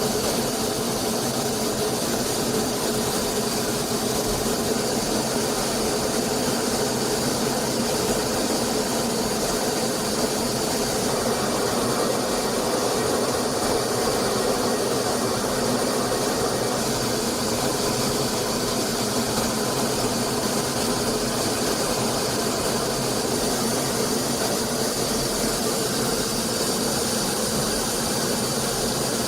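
Steady jet aircraft noise in flight: an even rush of engine and airflow with a faint steady hum and hiss, unchanging throughout.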